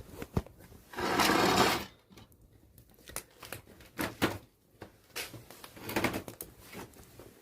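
Rustling and handling noise: a loud burst of rustling about a second in, then scattered knocks and clicks, as things near the camera are moved.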